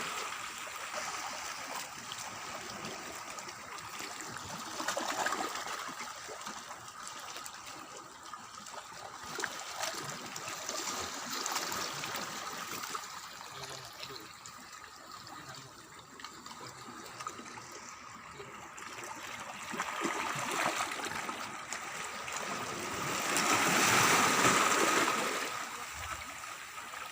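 Water trickling and sloshing, rising and falling in uneven swells, with the biggest swell near the end.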